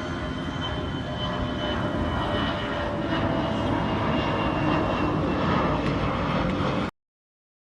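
Airbus A320-214's CFM56 turbofan engines running with a dense rumble and a steady whine, growing louder over the first few seconds. The sound cuts off suddenly about seven seconds in.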